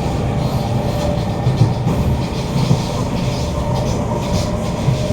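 Inside a Kawasaki Heavy Industries C151 metro car running along the line: a steady low rumble of wheels on rail with light clatter. Over it is a continuous hum of a few steady tones from the GTO-VVVF traction motors.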